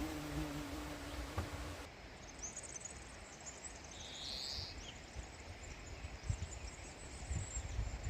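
Countryside ambience: a continuous high chirping chorus, with one short bird call about four seconds in. A low steady hum runs for the first two seconds and cuts off suddenly.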